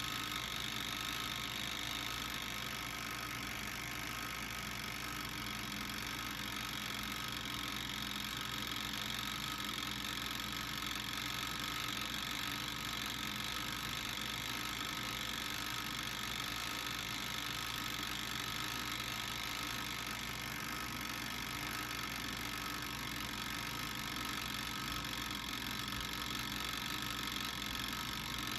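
Garlic sizzling steadily as it cooks, an even hiss with a steady hum underneath.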